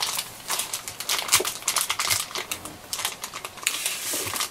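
Packaging being unwrapped and handled: a quick run of light clicks, taps and crinkles, with a short rustle near the end.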